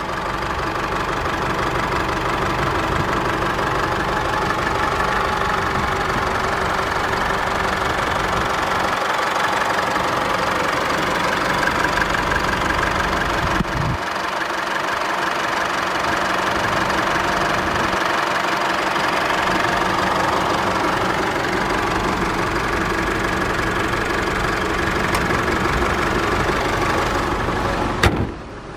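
The Isuzu D-Max's 2.5 litre twin-turbo four-cylinder diesel engine idling steadily. A single sharp knock sounds near the end.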